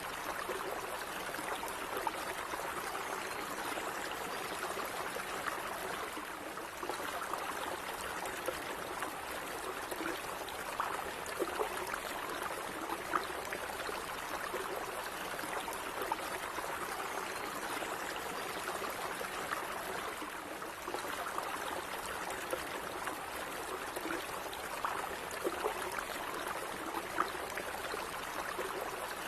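Gently running stream water, a steady even rush of flow with small splashes and trickles scattered through it.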